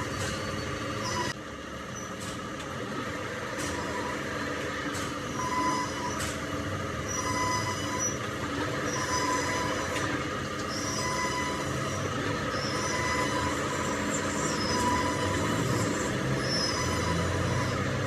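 Metal-cutting machine running steadily on steel, with a squealing tone that comes back about every second or so.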